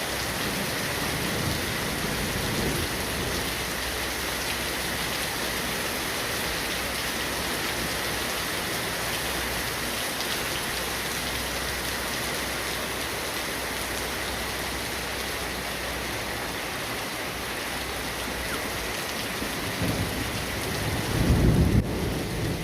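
Steady heavy rain, an even hiss of falling water, with a low rumble swelling up near the end.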